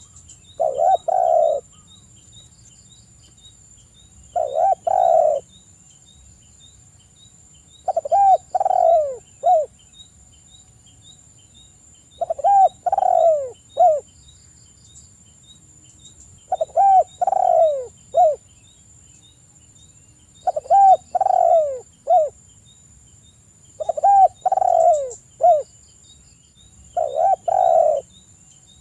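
Spotted dove (tekukur) cooing: a phrase of several low coos, repeated eight times about every four seconds.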